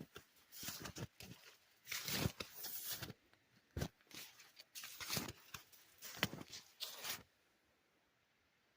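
Irregular crunching and scuffing noises, short bursts and longer rasps, which stop abruptly about seven seconds in.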